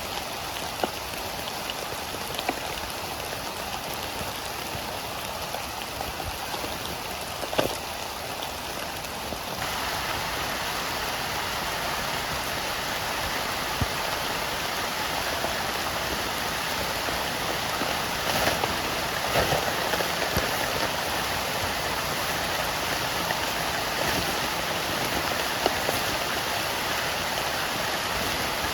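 Heavy rain falling steadily, with scattered louder drops striking close by. About ten seconds in, the rain grows a little louder and brighter.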